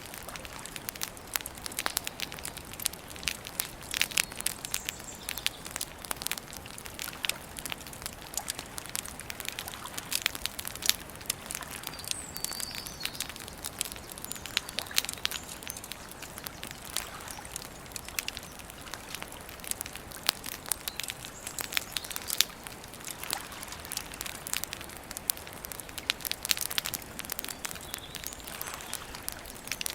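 Wood campfire crackling and popping with irregular sharp snaps, over a soft steady hiss. A few faint bird chirps come through, near the start and about twelve seconds in.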